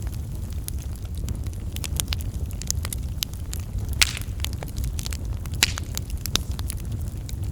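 Campfire burning: a steady low rumble of flames with irregular wood crackles and snaps, a couple of louder pops about four and five and a half seconds in.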